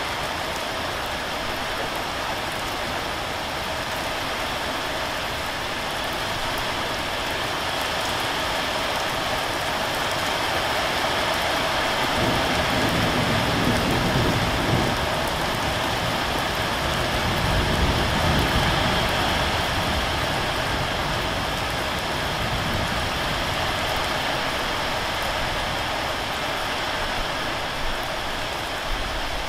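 Steady rain falling and pattering on surfaces, an even hiss throughout. In the middle a low rumble swells for several seconds and then fades.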